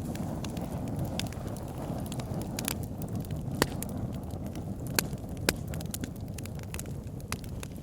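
Wood fire burning in a fireplace: a steady low rumble of flames with frequent sharp crackles and pops, the loudest pops a little after the middle.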